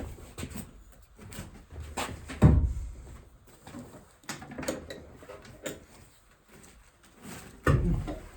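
Scattered knocks and clinks of hand tools and loose bolts being handled while an NV4500 transmission is taken apart, with two heavier thumps, about two and a half seconds in and near the end.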